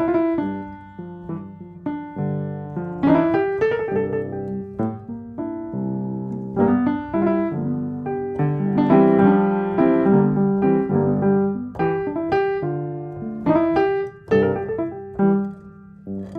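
Background piano music: chords and melody notes played at a moderate pace.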